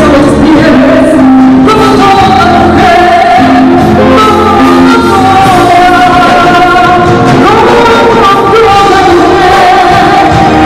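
Live song performance: a voice singing long held notes over instrumental accompaniment.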